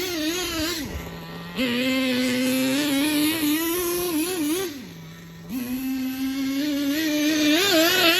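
Small two-stroke nitro engine of a 1/10-scale FTX Zorro trophy truck running at raised revs, falling back to a steady idle twice, about a second in and about five seconds in, and picking the revs back up each time with a wavering pitch.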